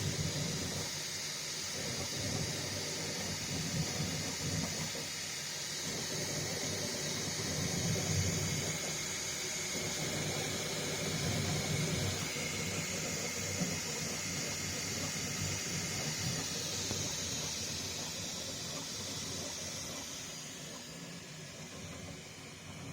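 Bambu Lab X1-Carbon 3D printer running while printing: a steady fan hiss over an uneven low hum from the moving print head and bed, fading down over the last few seconds.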